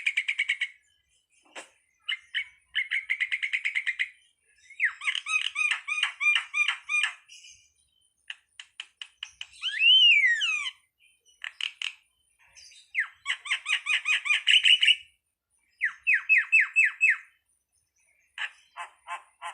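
Starling (jalak) calling: phrases of rapid repeated chattering notes and chirps, with one clear whistle rising then falling about ten seconds in, broken by short silent gaps.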